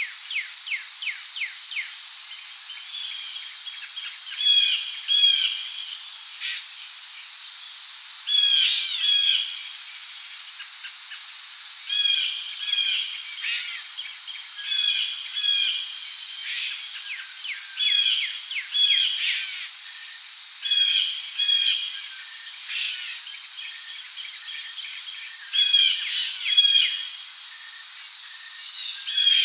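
Rainforest ambience: a steady high-pitched insect drone with birds calling over it in short, repeated chirping phrases every second or two.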